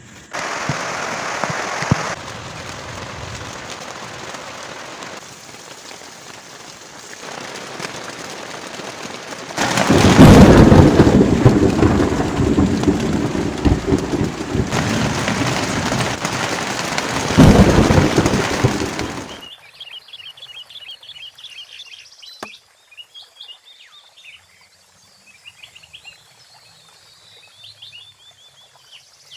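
Heavy rain pouring with thunder, swelling into a loud, deep rumble about ten seconds in and another crack and rumble a few seconds later. It cuts off suddenly, leaving small birds chirping.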